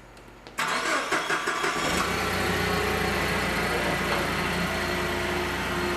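A motor starts abruptly about half a second in, with a rapid clatter at first, then settles into a steady run.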